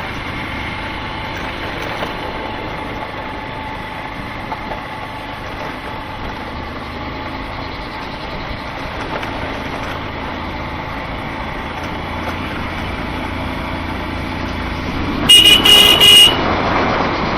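A motorcycle running steadily on the road, with road and wind noise. About fifteen seconds in, a loud vehicle horn honks for about a second.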